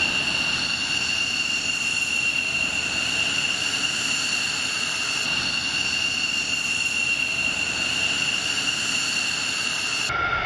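F-15J fighter's twin F100 turbofan engines at taxi power: a steady high-pitched whine over a rushing noise. Near the end the whine shifts abruptly to a lower pitch.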